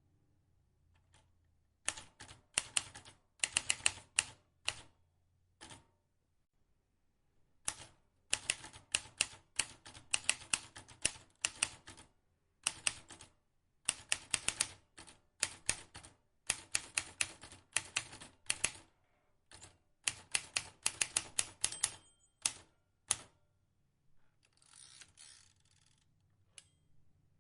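Vintage manual typewriter being typed on: runs of rapid key strikes broken by short pauses, then a softer rasping sound near the end.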